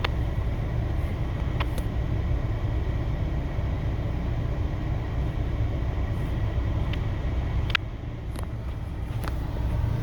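Steady low rumble of an idling semi-truck engine, with a couple of light clicks.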